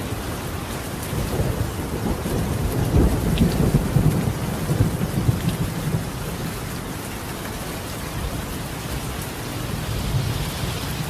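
Steady rain pattering on a tiled roof, with a roll of thunder rumbling low that swells about a second in, peaks in the middle and fades, then a smaller rumble near the end.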